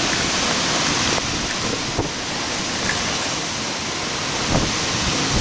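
Heavy wind-driven rain from a derecho thunderstorm: a steady rushing hiss, with a couple of short knocks about two seconds in and near the end.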